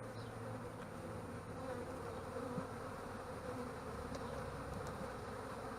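Steady drone of a swarm of honey bees buzzing around an opened hive, a dense hum with no breaks.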